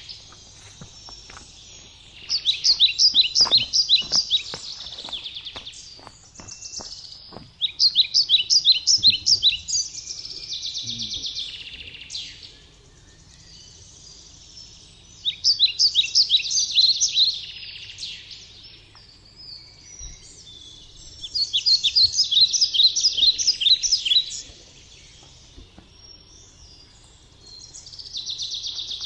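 A songbird singing loud phrases of rapid, evenly repeated high notes, each about two to three seconds long, repeated four times about six seconds apart, with a fifth phrase starting at the end. A few faint clicks or knocks come in the first several seconds.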